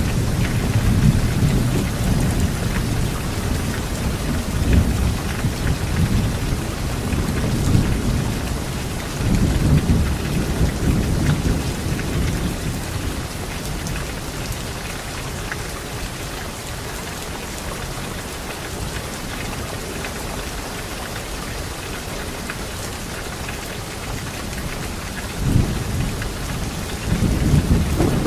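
Thunderstorm: steady rain with rolling thunder. Rumbles carry through the first ten seconds, die away to rain alone, and a new roll of thunder starts near the end.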